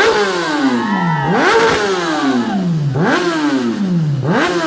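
Superbike engine revved hard and repeatedly while standing still: each blip of the throttle climbs sharply in pitch and then falls away slowly, about once every second and a half.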